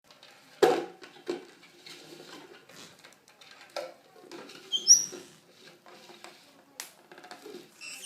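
A parrot scuffling and tapping about, with irregular scratches and knocks, the loudest just under a second in, and one short, high chirp about five seconds in.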